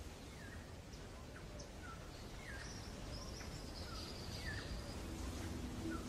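Small birds chirping faintly: short falling chirps about once a second, with a longer, higher trill in the middle, over a low rumble.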